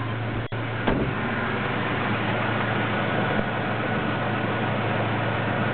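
Car engine running at a steady speed: a low, even hum under a constant noise. The sound cuts out briefly about half a second in.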